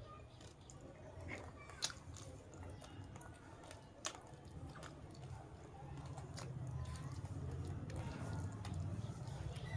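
A person chewing and biting food, eating beaten rice (chura) with chicken, with scattered sharp clicks, the strongest about two and four seconds in.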